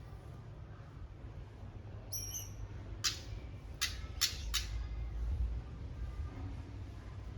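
Small aviary finches calling: a short high call about two seconds in, then four sharp, very short notes in quick succession about a second later, over a steady low hum.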